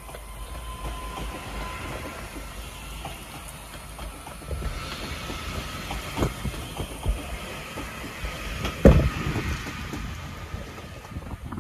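TransPennine Express Class 802 trains running along the platform: a steady rumble with a faint whine, then wheels clacking sharply over rail joints and points, the loudest clack about nine seconds in.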